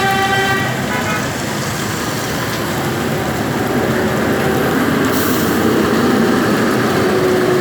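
Steady rain, with the rush of traffic on wet roads. A horn sounds twice in quick succession about a second in.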